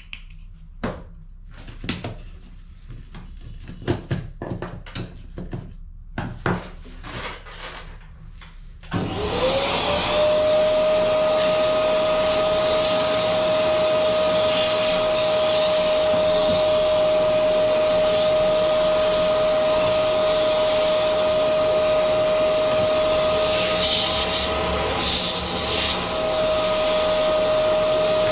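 A run of light clicks and knocks of small plastic parts being handled, then a vacuum cleaner motor switches on about a third of the way in, its whine rising quickly to a steady pitch, and runs on loud and steady, dipping briefly near the end.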